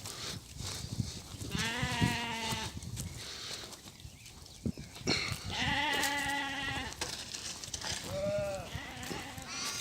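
Xalda sheep bleating: two long, wavering bleats a few seconds apart, then a shorter one near the end.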